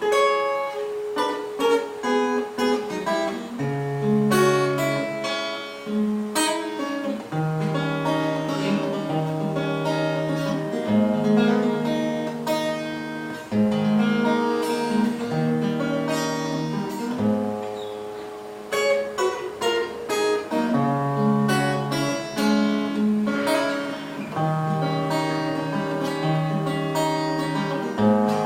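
Acoustic guitar playing an instrumental introduction: notes picked one after another over held bass notes.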